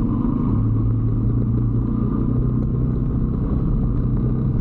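125cc motorbike engine running at a steady, even pitch while riding, with no revving or gear changes.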